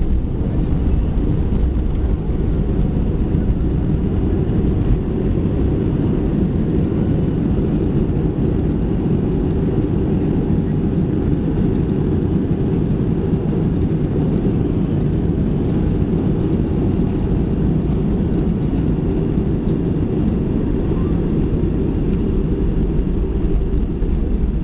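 Steady low rumble of a jet airliner's engines and airflow heard inside the passenger cabin during the landing.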